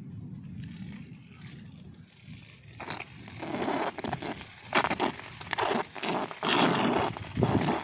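Heavy rain: a low steady rush, then from about three seconds in, irregular loud rushing bursts with short gaps between them.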